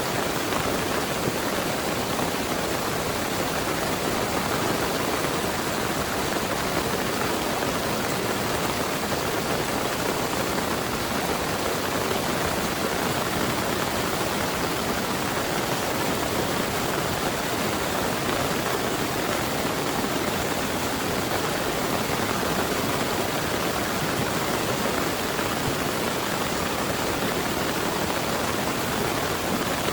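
Heavy rain pouring steadily, an even hiss with no thunder or breaks.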